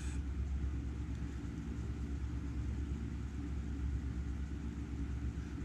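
Steady low background hum and rumble with no distinct clicks or knocks.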